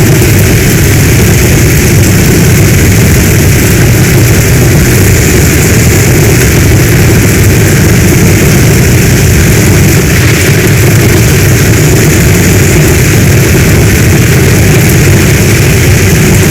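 Heavy storm rain falling steadily, with a deep low rumble under the hiss and no change or separate impacts.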